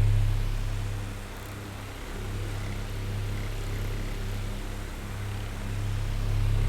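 Electric oscillating fan running with a steady low motor hum and airflow hiss. It grows fainter about a second in as the head swings away, then louder again near the end as it swings back.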